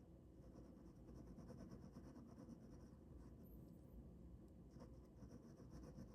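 Ballpoint pen drawing on paper: faint, quick scratching strokes that stop for a couple of seconds midway, then start again.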